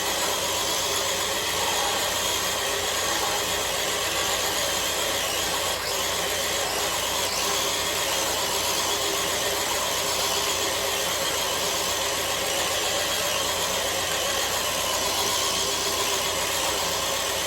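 Traxxas TRX-4 RC crawler truck straining to drag a weighted pulling sled, its electric motor and gearbox whining steadily under load. The sound cuts off suddenly near the end as the run is stopped.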